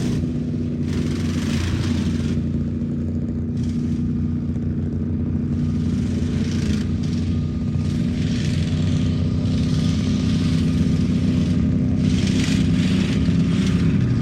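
Off-road competition truck's engine running steadily at a fairly even pitch.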